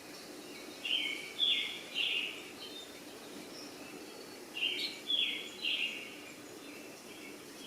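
A bird calling in two runs of about three short calls each, a few seconds apart, over a steady low background hum.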